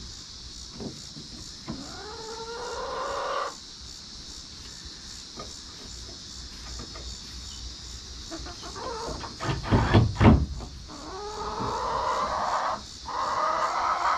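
Chickens calling: two long drawn-out calls, one early and one near the end. About ten seconds in there is a short cluster of loud knocks and thumps.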